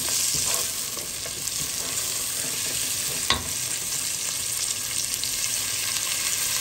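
Finely chopped onion and frozen ginger and garlic paste cubes sizzling in hot oil in a nonstick pot, with a wooden spoon stirring and scraping through them. A single sharp knock about three seconds in.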